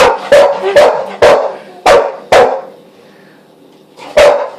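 Dog barking excitedly at a toy spider it is chasing: a quick run of about six sharp barks, a pause of over a second, then another bark near the end.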